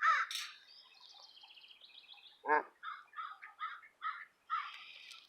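Birds calling: a crow's caw right at the start, then high chirping, one deeper call about halfway through, and a run of short calls about three a second.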